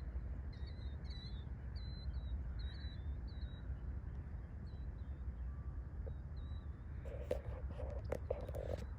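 A small bird chirping repeatedly, short wavering high notes about two a second, over a steady low rumble. Near the end, a couple of seconds of rustling with sharp clicks.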